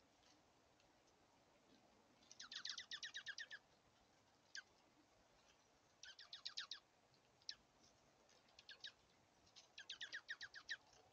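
A bird calling in three short rapid trills, each about a second long, with a few single chip notes between them.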